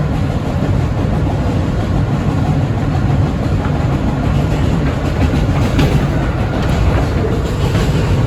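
R160B Siemens subway train running at speed, a steady loud rumble of wheels on rails with a few brief clatters. A faint steady tone comes in near the end.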